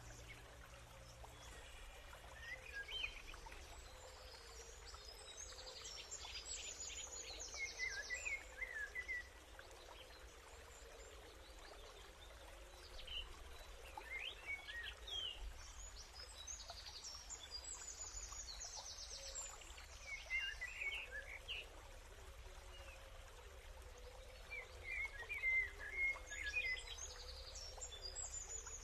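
Small birds chirping and trilling in bursts every few seconds over a steady low background hum.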